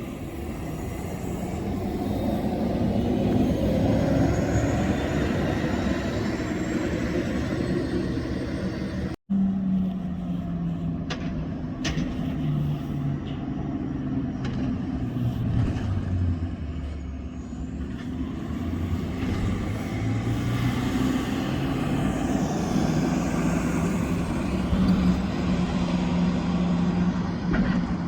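Diesel city transit buses driving by on the street. A bus passes and grows louder over the first few seconds. After a cut about nine seconds in, a bus engine's pitch drops as it slows, then climbs again as it pulls away, with a couple of short sharp clicks along the way.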